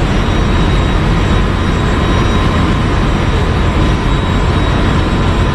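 Ship's engine room machinery running loudly and steadily, a deep rumble with a constant whine over it, cut off abruptly at the very end.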